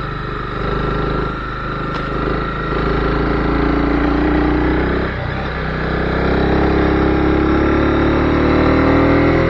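Honda CB250R's single-cylinder engine pulling through the revs, its pitch rising steadily, dipping about five seconds in, then climbing again.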